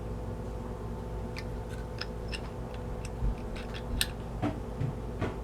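Irregular light clicks and taps of hand tools working a Teflon-taped fitting into a dishwasher water inlet valve, over a steady low hum.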